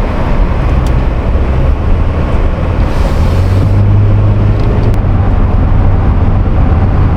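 Inside the cabin of a Toyota Sienna minivan on the road: a loud, steady rumble of road and engine noise.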